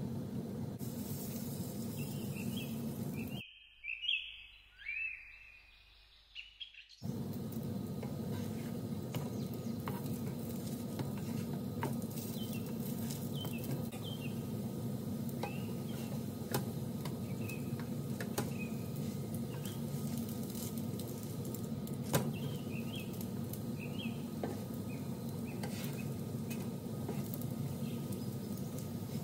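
Egg-battered bread slices shallow-frying in oil in a non-stick pan: a steady sizzle with small crackles. The sizzle drops out for about three seconds early on, leaving birds chirping, and the chirps come back faintly over the frying now and then.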